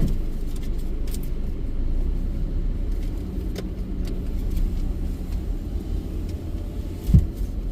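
A car running at low speed, heard from inside the cabin as a steady low rumble, with a short low thump near the end.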